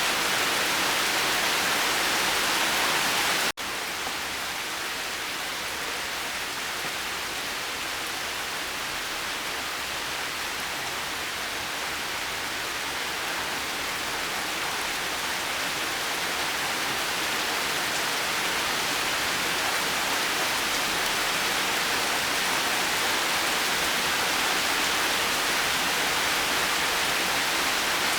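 Steady rain, a dense even hiss. About three and a half seconds in it cuts out for an instant at an edit and comes back softer, then slowly builds back up.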